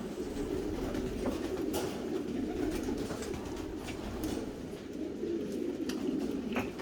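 A flock of racing pigeons cooing continuously, many calls overlapping into a steady low murmur, with scattered sharp taps and clicks.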